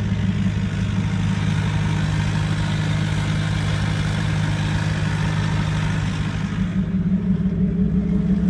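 1991 Volkswagen Jetta turbodiesel engine idling steadily. About seven seconds in the higher hiss drops away while the low idle continues.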